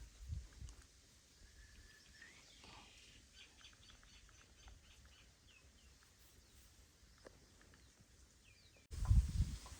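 Faint chirps of small birds, short and scattered, over a very quiet background. About nine seconds in, a louder low rustling and thumping starts abruptly.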